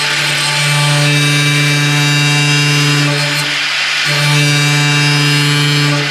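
Power tool cutting car-body sheet metal, its motor running at a steady pitch under load, easing off briefly about three and a half seconds in and again near the end.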